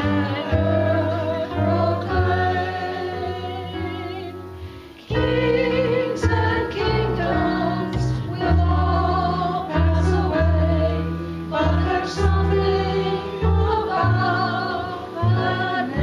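Congregation singing a hymn with instrumental accompaniment. The music dips briefly about five seconds in and then resumes.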